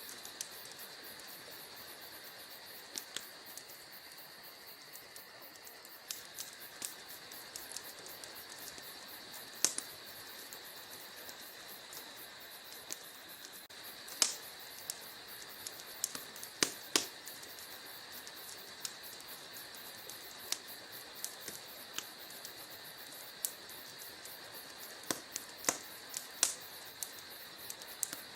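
Wood fire crackling in a fireplace: irregular sharp snaps and pops, some louder than others, over a steady faint hiss.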